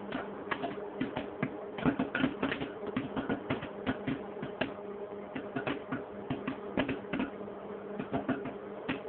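Microwave popcorn popping in its bag: irregular sharp pops, a few a second, over the steady hum of the running microwave oven.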